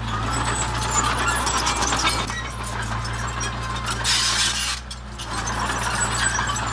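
Heavy earthmoving machinery with its diesel engine running steadily, while stones clatter and clink against metal and each other. A short burst of hiss comes about four seconds in.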